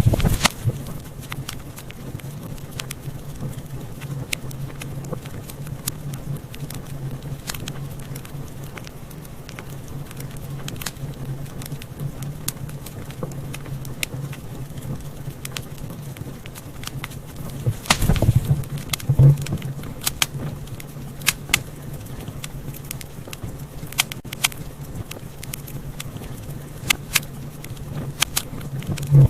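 Wood fire in a fireplace crackling: scattered sharp pops and snaps over a steady low rumble of burning, with a brief cluster of louder pops about eighteen seconds in.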